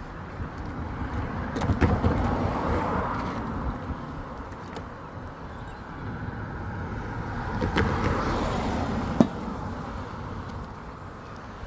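Two road vehicles driving past one after the other, each swelling and fading, about two seconds and eight seconds in. A few sharp knocks come with them, the loudest a little after the second one passes.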